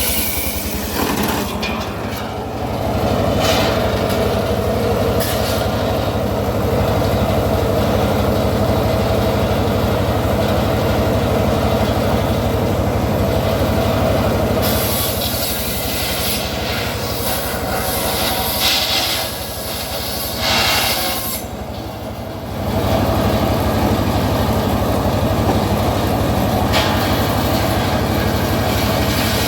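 Homemade circular sawmill running, its large blade cutting a teak log, with a steady engine drone under the cutting noise. The cut eases off for a couple of seconds about two-thirds of the way through, then picks up again.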